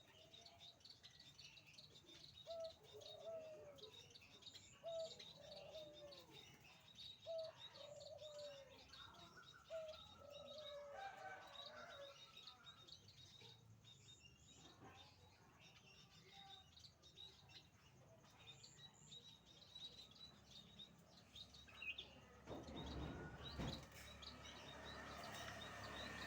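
Caged birds calling: high chirps throughout, with a series of short, low, arched calls repeating about once a second in the first half. A low rushing noise comes up near the end.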